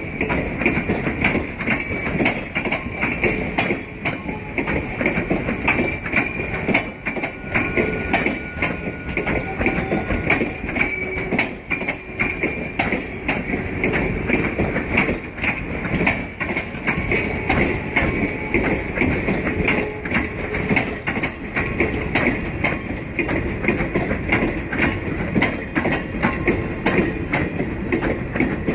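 Passenger cars of a train rolling past: steel wheels running on the rails with a rapid, steady clicking and clattering over a constant rumble, and a faint steady high tone underneath.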